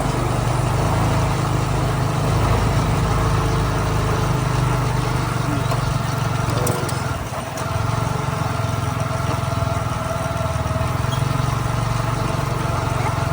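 Motorcycle engine running steadily during a ride, dipping briefly about seven seconds in.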